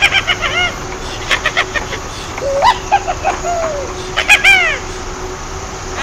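Birds calling: several bursts of quick, high, repeated chirping notes, each burst lasting under a second, over a faint steady hum.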